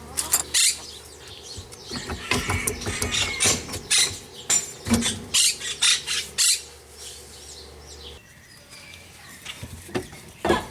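Birds chirping, with irregular knocks and clicks for the first six seconds or so.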